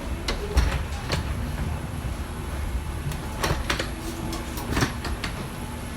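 Airliner cabin during boarding: a steady low rumble of ventilation with scattered knocks and clatter of bags and overhead bins being handled.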